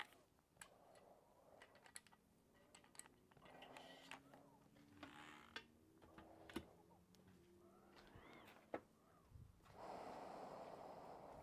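Near silence, with faint scattered clicks and taps of tools and parts being handled on a workbench, and a soft rustle near the end.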